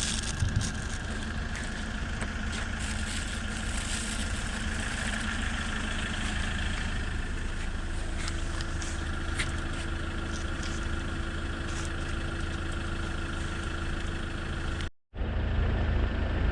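Steady low rumble of a running motor vehicle, with a sudden brief cut about three-quarters of the way through, after which it resumes slightly louder.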